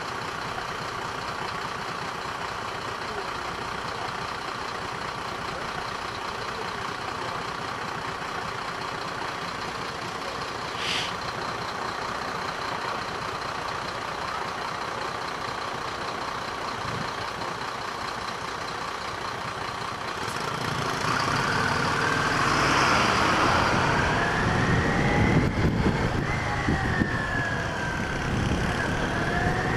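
Motorcycle riding in traffic: steady wind and road noise, growing louder about twenty seconds in, with a tone that sweeps up and down several times.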